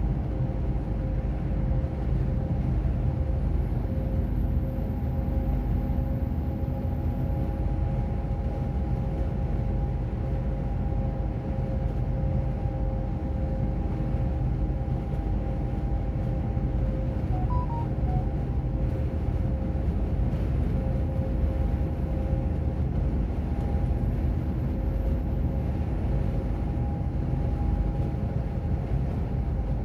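Truck on the move at a steady pace: constant engine and road rumble with a faint steady whine above it.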